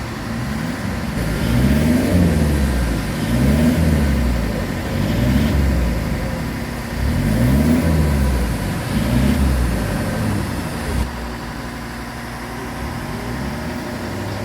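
Mercedes-Benz ML engine revved up and let fall back about five times, roughly every two seconds, then settling to a steady idle near the end, while being run on a hydrogen (HHO) carbon-cleaning machine.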